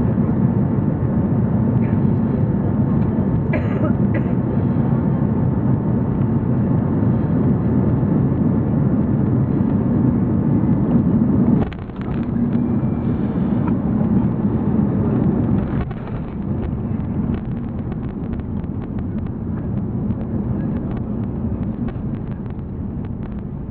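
Cabin noise of an Airbus A340-300 during its landing: a loud, steady rumble of engines and airflow. It dips briefly about twelve seconds in, steps down in level around sixteen seconds in and then slowly fades.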